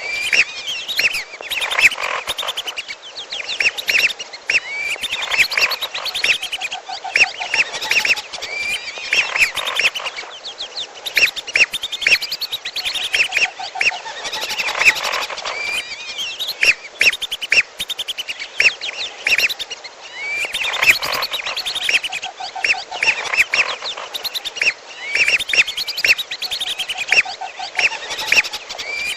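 Whistling ducks calling without pause, mixed with another bird's calls: dense, rapid high whistles and chattering, with a lower pulsing trill every few seconds, played as a bird-lure recording.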